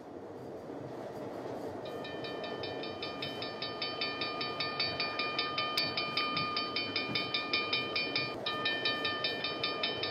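Cartoon steam train sound effect: a rumble that grows louder as the locomotive pulls in. From about two seconds in comes a rhythmic clatter with a pulsing high tone, which breaks off briefly about eight seconds in.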